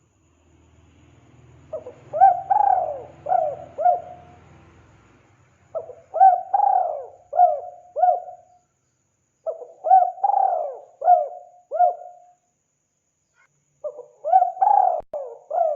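Spotted dove (tekukur) cooing: four repeated call phrases, each a quick run of rising-and-falling coos, one about every four seconds.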